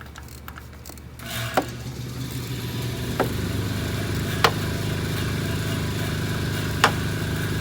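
An engine starts up about a second in and runs steadily at idle. Four sharp clicks or taps sound over it.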